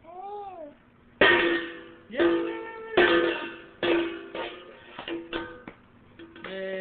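Loud, irregular banging on a pitched musical instrument: struck notes about once a second, each ringing out and fading, growing softer and quicker near the end.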